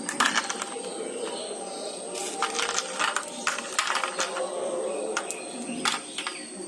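Small hard objects being handled, giving many scattered sharp clicks and taps over a steady background with a thin constant high tone.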